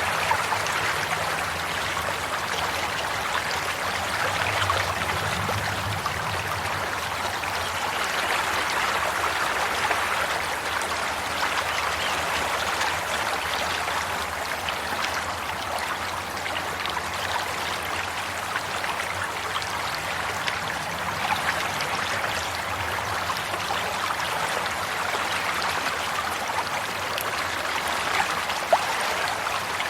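Running water flowing steadily, with fine trickling and splashing. A single brief louder splash comes near the end.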